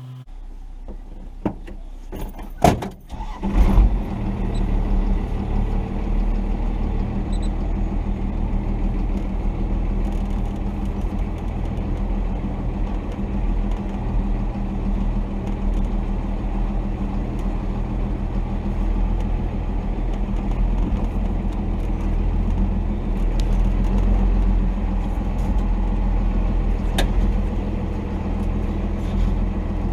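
1990 Dodge D250's Cummins inline-six turbo diesel running steadily as the truck drives on. A few sharp knocks in the first seconds, the loudest just under four seconds in.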